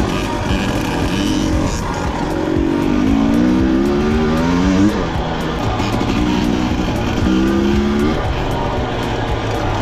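Two-stroke dirt bike engine revving, its pitch climbing several times as the throttle is opened and then dropping away sharply, the longest climb about halfway through.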